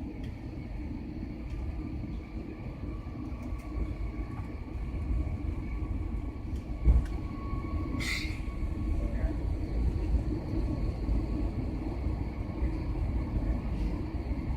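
Airliner cabin noise during landing: a steady low rumble that builds, with a single sharp thump about seven seconds in and a brief hiss a second later.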